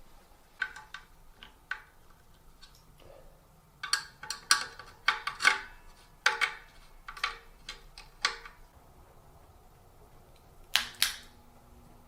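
Small metal clicks and clinks of ceiling fan hardware being handled and fitted during reassembly, a quick run of them from about four to eight seconds in. Near the end come two sharper clicks, followed by a low steady hum.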